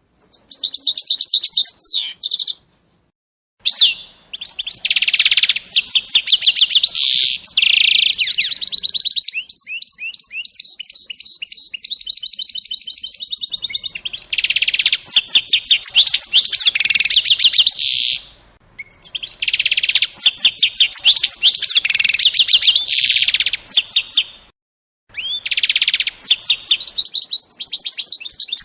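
A small songbird singing loudly in long phrases of rapid trills and chirps, with a few short pauses between phrases.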